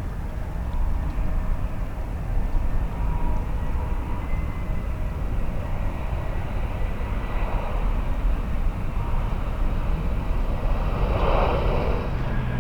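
Jet airliner engines making a steady, heavy rumble with a faint high whine over it, swelling slightly near the end.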